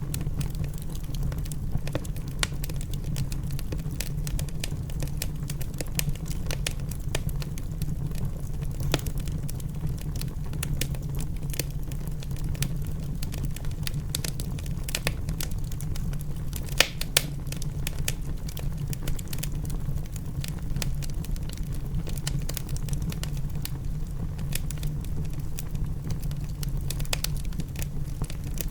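Wood fire crackling in a fireplace, with frequent irregular sharp pops and snaps over a steady low rush of rain. One louder pop comes a little past halfway.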